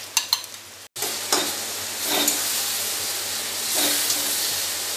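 Onion, tomato and ground spice paste sizzling in hot oil in a steel pan while a spatula scrapes and clicks against the metal as the masala is stirred and fried down. Sharp clicks open the sound, it cuts out briefly about a second in, and then a steady sizzle runs with occasional knocks.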